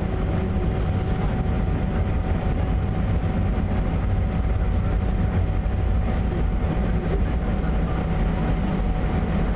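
Airbus A320 cabin noise: a steady low rumble of the jet engines with a thin, steady whine above it, not rising in pitch or level.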